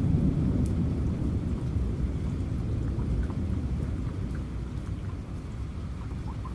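Rain falling with a low rumble of thunder that slowly fades away, and scattered drops ticking.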